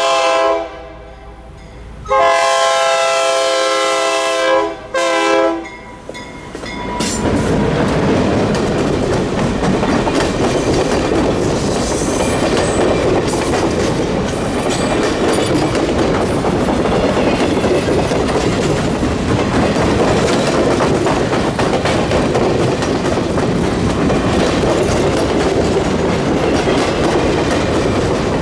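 Locomotive air horn sounding several blasts, a short one, a long one and a brief final pair, then the train passing close by, with steady wheel and rail noise and clickety-clack of the cars over the rail joints.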